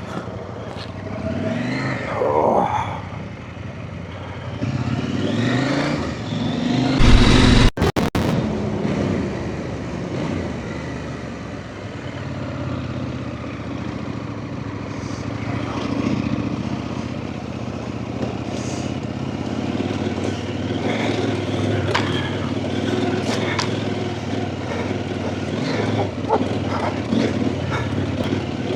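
Off-road motorcycle engine running on a trail, revving up and easing off with the throttle, with a brief loud blast about seven seconds in, then a steadier run.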